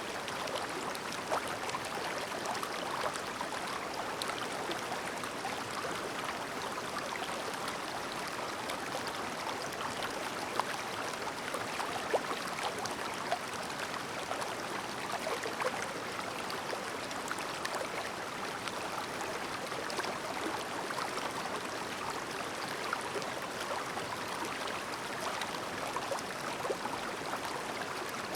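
Clear mountain stream babbling steadily over a shallow bed, with many small splashes and gurgles.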